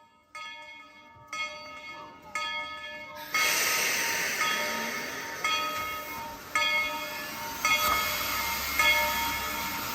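Steam locomotive bell ringing about once a second on Tweetsie Railroad's #190, a narrow-gauge 2-8-2 steam locomotive. About three seconds in, a loud steady steam hiss starts and continues under the bell.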